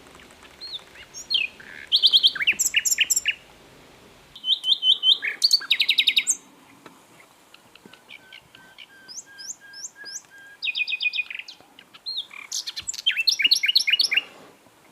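Common nightingale singing: separate phrases of rapid repeated notes and trills with short pauses between them. In the middle comes a run of soft, evenly spaced lower notes.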